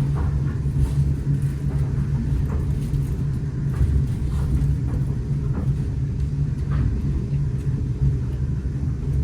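Steady low rumble of a heritage passenger train running along the line, heard from aboard, with a few faint clicks over it.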